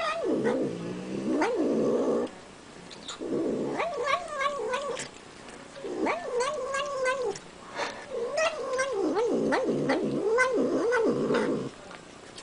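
Domestic cat making drawn-out, wavering moaning noises while eating, in four long bouts separated by short pauses.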